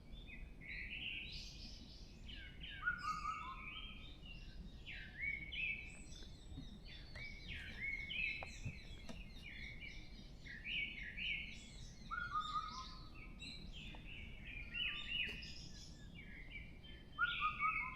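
Dawn chorus of several forest songbirds singing at once: a continuous stream of short, quick, chirping and whistled phrases at different pitches, over a low steady background hum.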